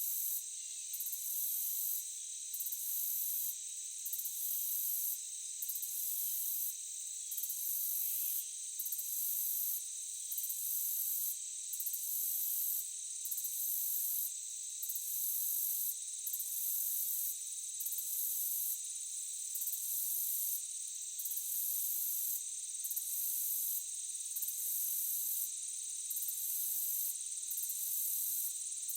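Night insect chorus of crickets or similar insects: a steady high-pitched trilling, with a still higher layer that swells and breaks in a regular pulse about every second and a half.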